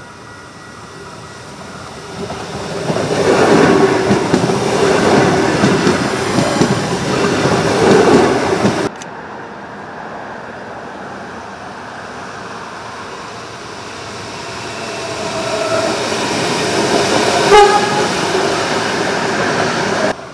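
Adelaide Metro 4000 series electric trains passing close by, their wheels rumbling on the rails over a steady tone. The first pass swells and breaks off abruptly about nine seconds in. A second pass then builds up, with a single sharp knock near the end.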